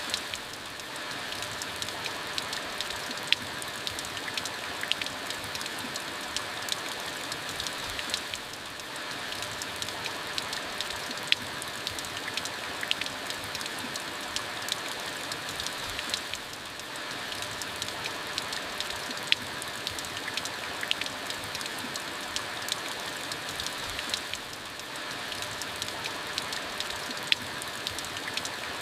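Steady rain falling, a dense hiss with many individual drops pattering sharply on a surface. The rain dips briefly about every eight seconds.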